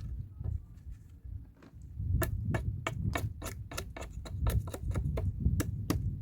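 Rapid sharp knocks on wood, a few scattered at first, then about five a second from about two seconds in, over a low rumble.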